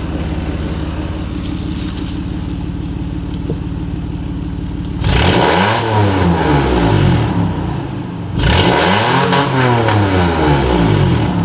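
Toyota Land Cruiser 80's 1FZ-FE 4.5-litre straight-six petrol engine idling steadily, then revved twice, each rev climbing and falling back over about three seconds before settling to idle again.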